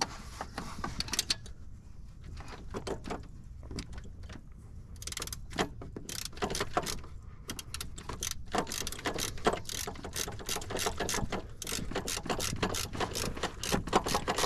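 Stubby hand ratchet clicking as it runs in the long starter mounting bolt, in short strokes: sparse at first, then quick runs of clicks through the second half.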